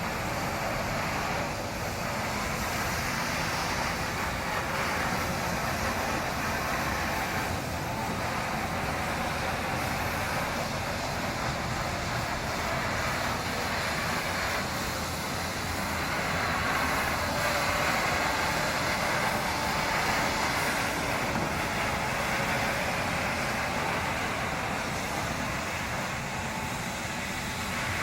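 R660B floor-cleaning machine running steadily, a constant whirring mechanical noise, a little louder for a while past the middle.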